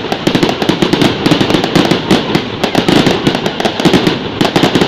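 Fireworks going off in a dense, continuous barrage of rapid, irregular cracks and pops.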